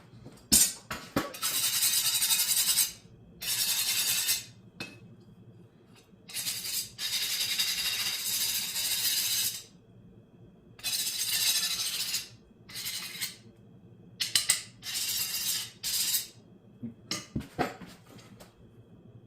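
A series of scraping strokes, about eight, each from half a second to nearly three seconds long with short pauses between, and a few sharp clinks near the start and near the end.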